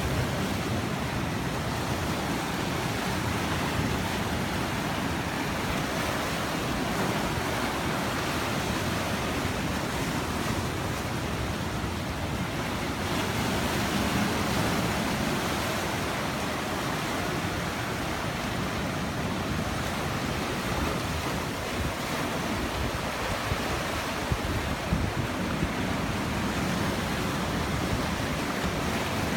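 Sea surf washing and breaking against rocks in a continuous rush that swells and eases, with wind rumbling on the microphone.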